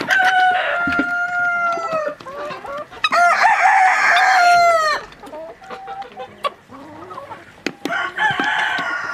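Rooster crowing three times, each a long held call, the second the loudest, with chickens clucking in between.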